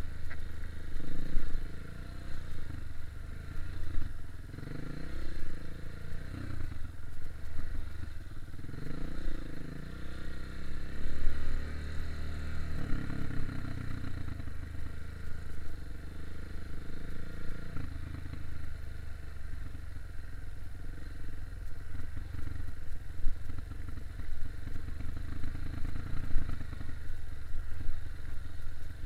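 Off-road dirt bike engine, a KTM 250 EXC-F four-stroke single, being ridden along a trail. The revs rise and fall repeatedly through the first dozen seconds, then it runs steadier.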